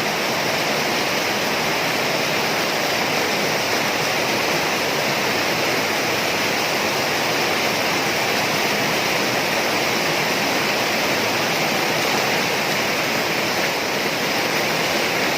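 Heavy rain pouring down, a steady, dense hiss of rainfall.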